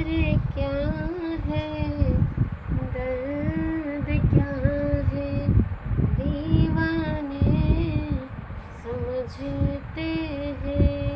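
A high female voice singing a slow melody in long held notes, the opening of a Hindi film-style song, over a loud irregular low rumble.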